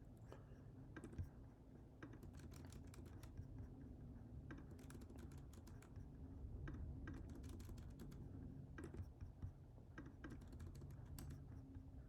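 Typing on a computer keyboard: quiet, irregular runs of key clicks over a faint steady hum.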